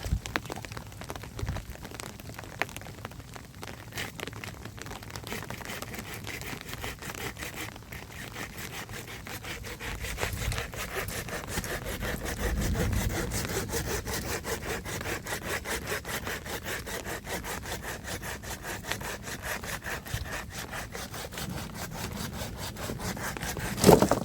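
Wood being cut with a hand saw in steady, repeated back-and-forth strokes. A single sharp knock comes near the end.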